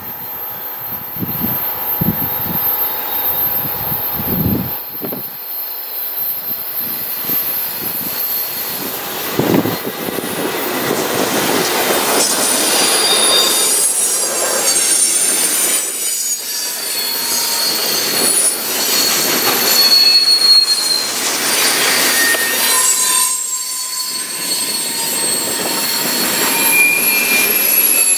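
A long CN freight train passing close by: a rumble that builds as it comes near, then freight cars rolling past with high-pitched wheel squeal from about halfway through. Wind buffets the microphone for the first few seconds.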